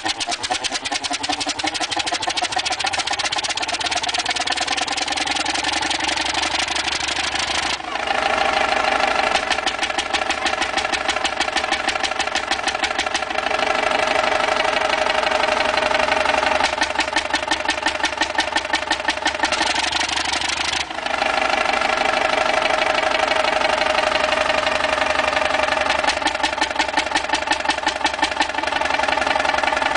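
A large piston engine running, with a rapid, even train of knocking beats; the sound changes abruptly a few times.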